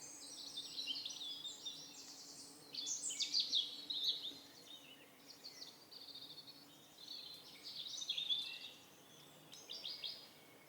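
Songbirds singing: a run of short, quick, high trilling phrases with brief pauses between them, loudest about three to four seconds in and again near eight seconds.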